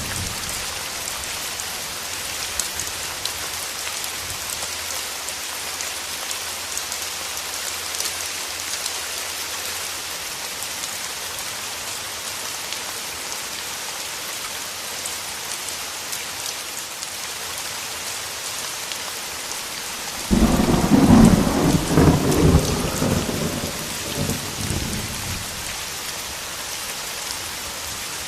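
Steady rain hissing throughout. About two-thirds of the way through, a thunderclap starts suddenly and rumbles loudly for a few seconds before fading.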